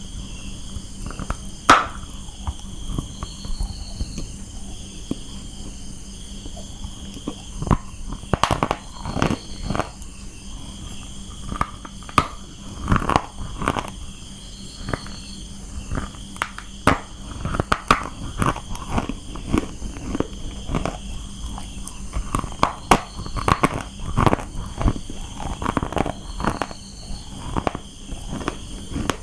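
Close-up crunching and chewing of dry baked clay (brown mathi): irregular sharp crunches, sparse at first and coming thick and fast from about eight seconds in. Crickets chirp steadily behind.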